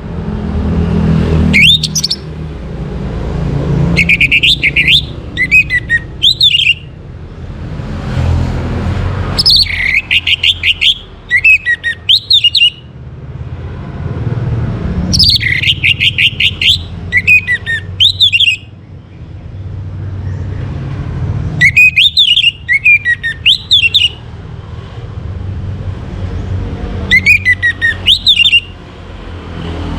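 Orange-headed thrush singing: loud, rich whistled phrases, about six of them, each a few seconds long with short pauses between. A low rumble runs underneath.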